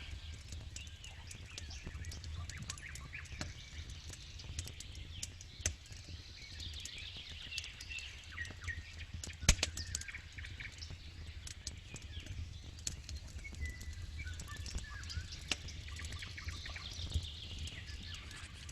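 Campfire crackling, with many sharp pops and one louder pop about halfway through, over a low steady rumble, while birds chirp and sing throughout.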